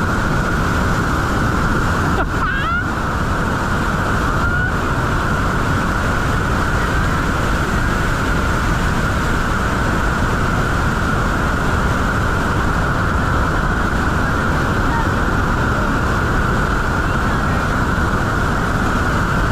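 Steady roar of Niagara's Bridal Veil Falls crashing down close by, heard from the walkway at its base.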